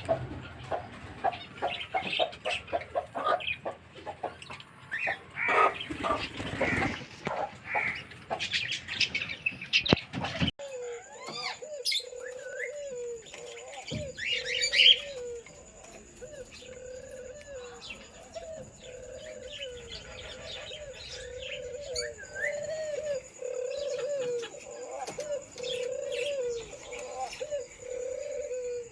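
Birds chirping busily with many quick clicks and calls; about ten seconds in the sound changes abruptly to pigeons cooing over and over, with occasional chirps.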